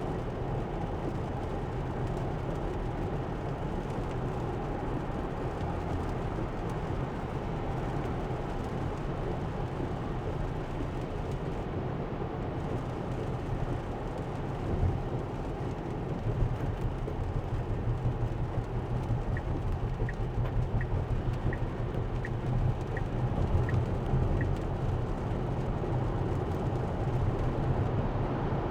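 Steady road and tyre noise of a Tesla driving on wet roads in the rain, heard from inside the cabin. In the second half comes a run of about eight short, light ticks evenly spaced a little under a second apart.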